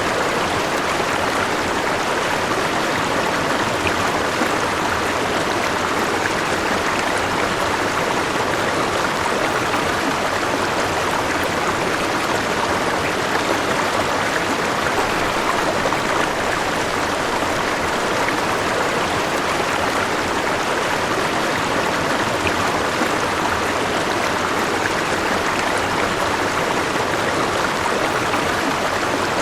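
River water flowing over rocks, a steady even rush with no change.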